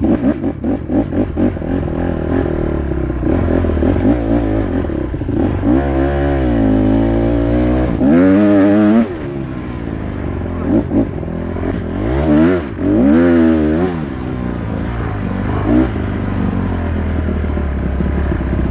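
Dirt bike engine revving hard as it is ridden, loud, its pitch climbing and dropping again and again with the throttle, with several sharp high revs through the middle.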